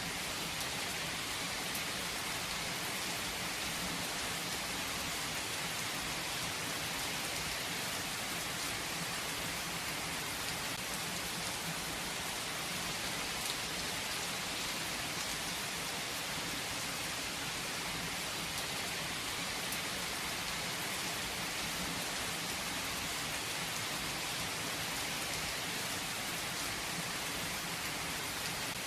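Steady rain falling on a surface: an even hiss of drops, with occasional individual drops ticking.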